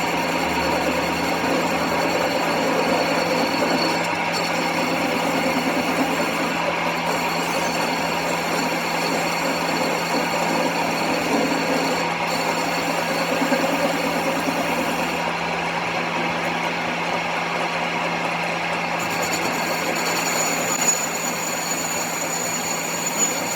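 A workshop machine running steadily, with a constant hum under a busy mechanical texture.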